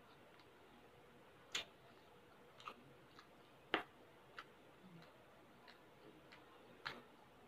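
A person chewing baked mussels with her mouth closed: soft, scattered mouth clicks and smacks, about seven in all, the loudest a little past the middle.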